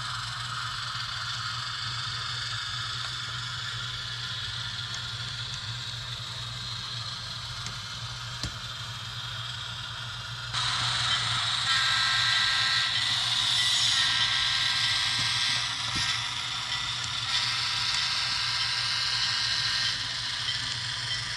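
HO-scale model train pulling a cut of cars: the locomotive's motor and gears whining and the wheels clicking over the track. About ten seconds in it gets louder and brighter, with a steady whine for several seconds.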